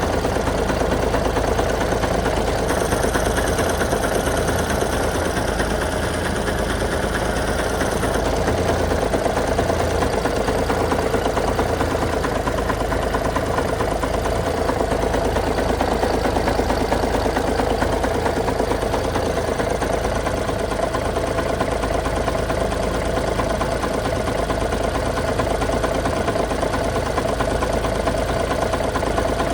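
Diesel engine of a 1976 Peterbilt 359 truck idling steadily.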